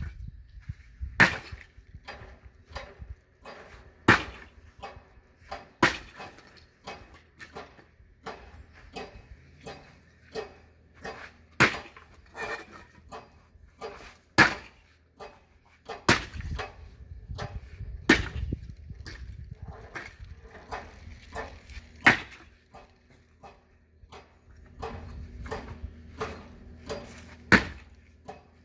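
Firewood being chopped and split: sharp wooden strikes every two to three seconds, with many lighter knocks and clatters of wood in between.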